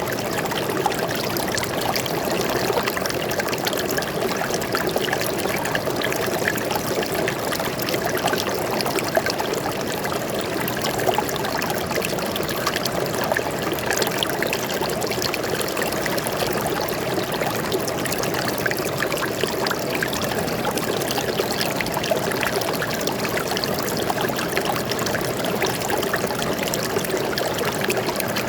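Stream water flowing steadily, with many small splashes.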